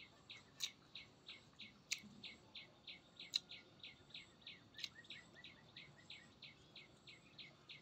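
A bird calling a faint, fast, even run of short chirps, about three or four a second. Four sharp clicks stand out over it, the loudest about three and a half seconds in.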